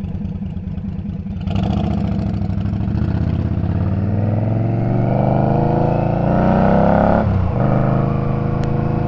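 Indian Scout's V-twin engine idling, then pulling away, its revs rising for several seconds. About seven seconds in the pitch dips briefly as it shifts up, then it runs steady.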